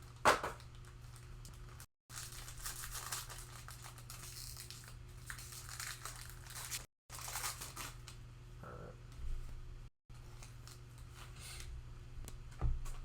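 Trading card pack wrappers crinkling and tearing as packs are opened and handled. There is a sharp knock just after the start and a dull thump near the end. The audio cuts out briefly three times.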